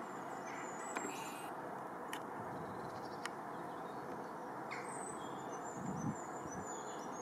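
Faint, very high, thin bird calls in two short runs of quick notes, about a second in and again from about five seconds in, over a steady hiss. Two small clicks fall between them.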